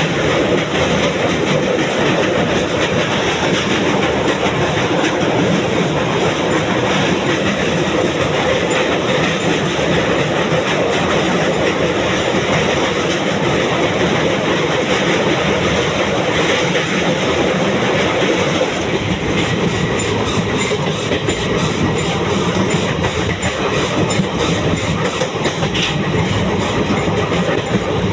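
Passenger train running along the track: a loud, steady rumble and rattle of the wheels on the rails.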